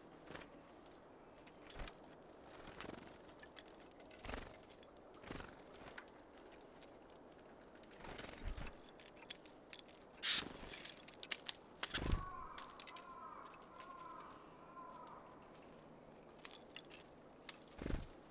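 Small birds at a seed feeder: scattered taps and knocks as they land, hop and peck at sunflower seeds, with brief wing flutters. About twelve seconds in comes a short call of four quick looping notes.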